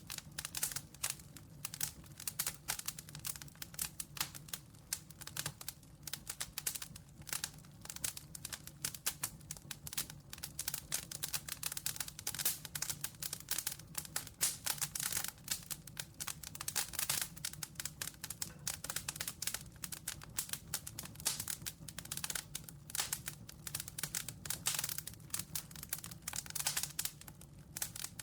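Campfire crackling: a dense, irregular run of sharp pops and snaps from burning wood, with a steady low hum underneath.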